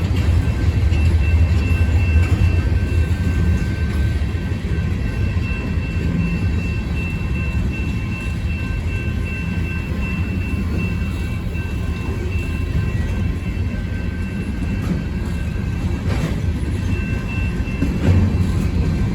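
CSX freight train's cars, including double-stack container cars, rolling past with a steady heavy rumble and a faint high ringing tone over it.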